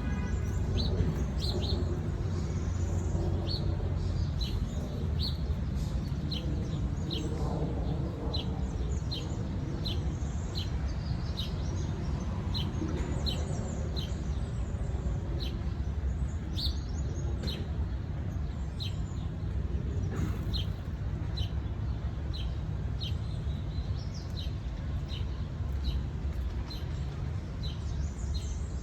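A bird chirping over and over, a short high chirp a little more than once a second, over a steady low background rumble.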